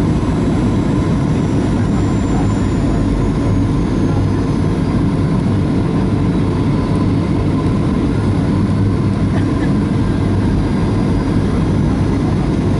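Steady jet-engine and airflow noise of a Boeing 737-400 heard inside the passenger cabin: a constant low rumble with a steady hum, unchanging throughout.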